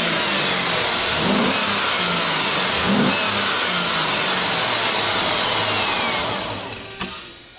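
2007 GMC Yukon's 5.3-litre V8 engine running hard under a rev, loud and steady, then falling away near the end.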